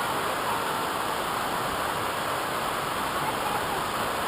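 Steady rushing water, a continuous even roar.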